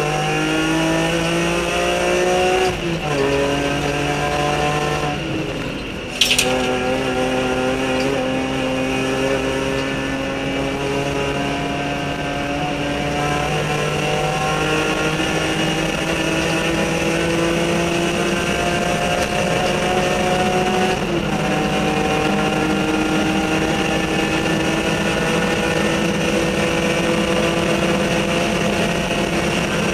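BMW E46 M3 race car's straight-six engine heard from the cockpit, pulling hard through the gears. The pitch climbs, drops sharply at upshifts about three seconds in and again about twenty seconds in, and between them there are long pulls with slowly rising pitch. A single sharp knock comes about six seconds in.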